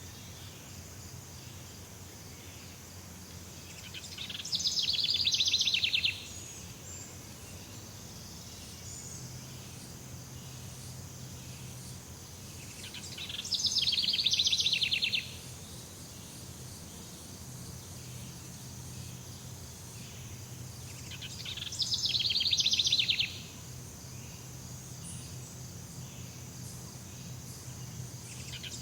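Jungle ambience: a steady high insect buzz, with a loud, rapid pulsing trill about two seconds long that comes three times, roughly every eight or nine seconds, swelling and then cutting off sharply.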